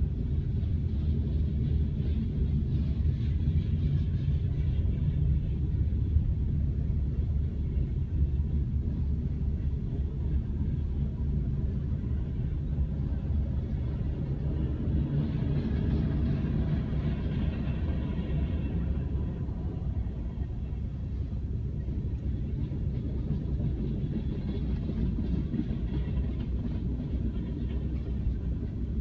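Freight train of tank cars and covered hoppers rolling past at a grade crossing, heard from inside a car as a steady low rumble. Higher wheel-on-rail noise swells about halfway through and again near the end.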